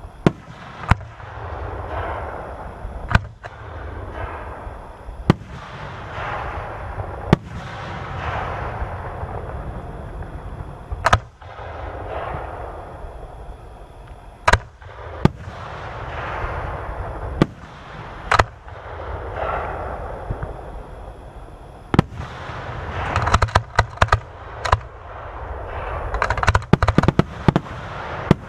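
Aerial fireworks display: sharp shell bursts every one to three seconds, each followed by a trailing hiss. Near the end comes a rapid string of bangs.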